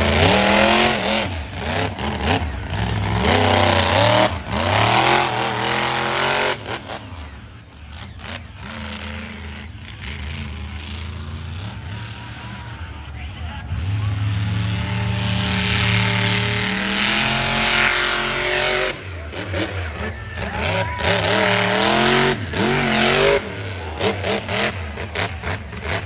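Monster truck's big-block V8 revving hard and falling back again and again, with a steadier lower run in the middle, and sharp cracks through the loudest stretches.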